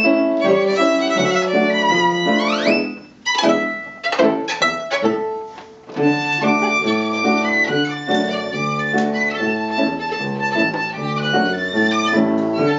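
Violin playing a lively melody, with two quick upward slides a couple of seconds in and then a stretch of short, separated notes with brief gaps. From about 6 s the melody resumes over lower notes underneath.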